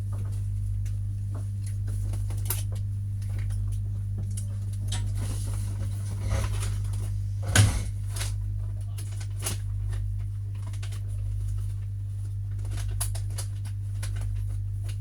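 Steady low hum and rumble inside a passenger train's cabin, with scattered clicks and rattles and one sharper knock about seven and a half seconds in.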